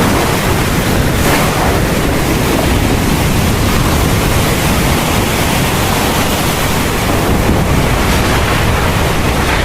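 Heavy thunderstorm rain pouring steadily.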